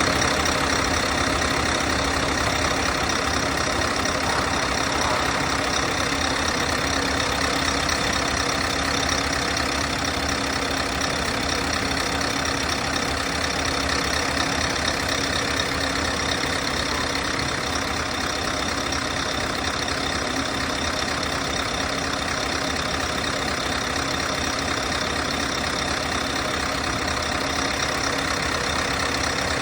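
Scania 620 hp V8 truck engine idling steadily, its firing pulses even and unchanging.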